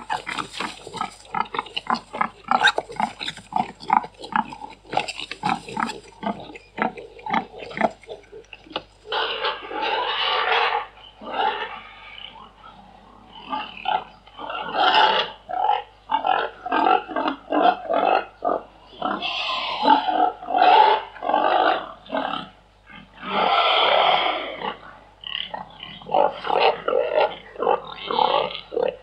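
Domestic pigs grunting in quick runs of short grunts, broken by about four longer, louder calls.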